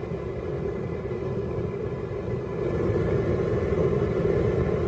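Propane burner under a boil pot running at high flame with a steady rushing sound, growing louder about two and a half seconds in as the heat is turned up.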